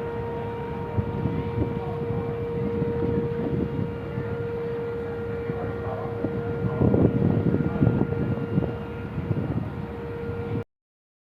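Truck on the move: a steady, unchanging whine over a low rumble, with rattles and knocks growing busier a little past halfway. The sound cuts out abruptly near the end.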